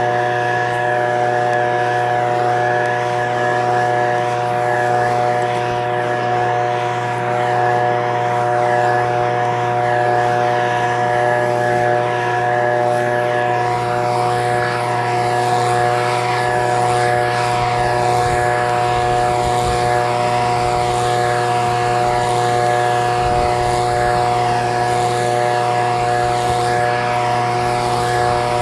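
Echo PB-2620 handheld leaf blower's two-stroke engine running at a steady, constant speed, with its fan blowing.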